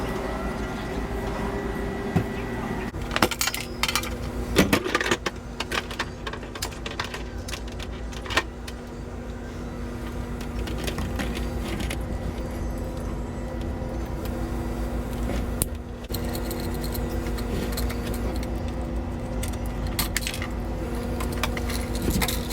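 Scattered metallic clinks and knocks of tools and parts being handled, in clusters, over a steady low hum.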